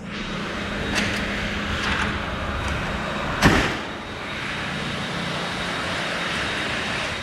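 Road traffic noise under a steady low hum, with a vehicle passing close by with a quick whoosh about three and a half seconds in.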